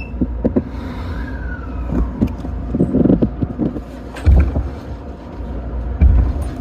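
Tōyō Rapid Railway commuter train running between stations: a steady low rumble with scattered clicks and knocks, and heavy low thumps about four and six seconds in.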